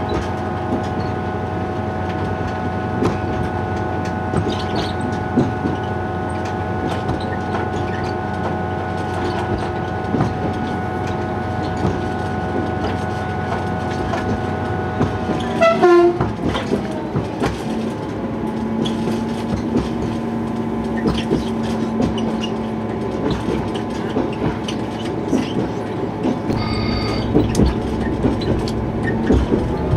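Diesel train running along the line: the engine's steady drone with rail-joint clicks throughout. About halfway the engine note glides down sharply, then carries on at a lower pitch. Near the end comes a brief high tone.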